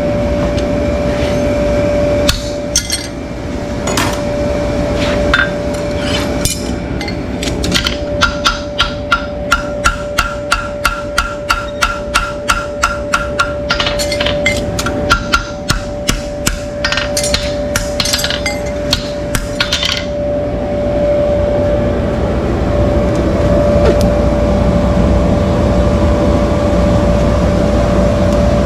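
Hammer strikes during hoof work: a few scattered knocks, then a steady run of sharp taps at about two a second over a constant hum. About two-thirds of the way through the taps stop and a steady rumbling noise carries on.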